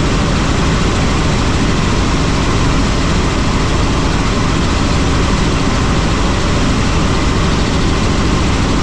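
Helicopter in flight: steady, loud engine and rotor noise.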